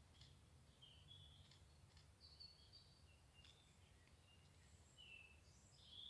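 Faint woodland birdsong: scattered short chirps and whistled notes from several birds, over a low steady rumble.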